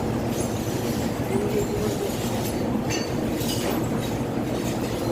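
A truck running with a steady low rumble and a few faint knocks.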